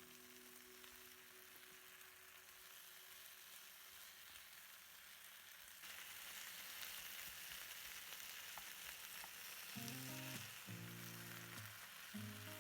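Food frying in oil in a pan, a faint steady sizzle that turns suddenly louder about six seconds in. Background music comes in near the end.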